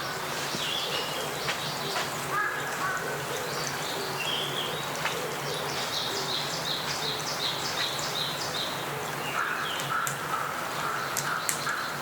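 Wild birds calling in woodland over a steady rushing background. About midway a bird repeats a short high note several times a second, and a lower repeated call follows near the end.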